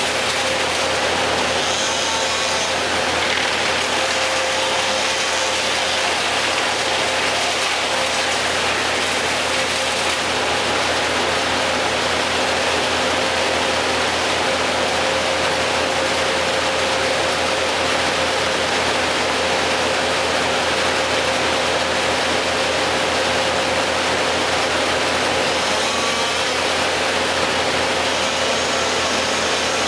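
An engine running steadily at an even pitch, with a constant hum.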